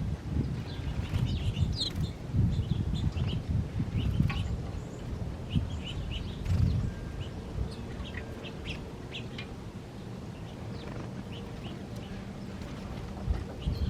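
Small birds chirping, many short high calls scattered throughout, over a loud low rumble.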